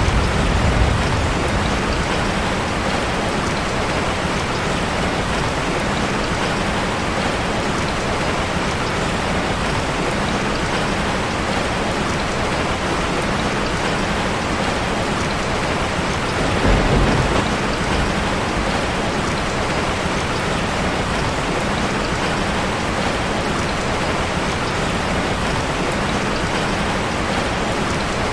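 Steady heavy rain drumming on a metal roof, an even dense hiss. About two-thirds of the way through, a low rumble swells briefly for a second or two.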